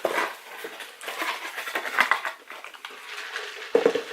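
Eating sounds close to the microphone: chicken nuggets being chewed, with irregular light clatter and rustle of takeout packaging and sauce cups.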